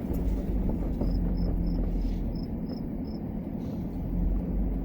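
Truck engine running steadily at low speed in four-wheel drive, a low rumble, while towing a trailer through tall grass. About a second in comes a row of about seven short, high, evenly spaced chirps.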